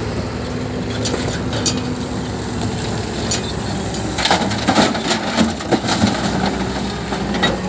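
A JCB backhoe loader's diesel engine running steadily, with scattered sharp cracks and a dense cluster of cracks and knocks about halfway through.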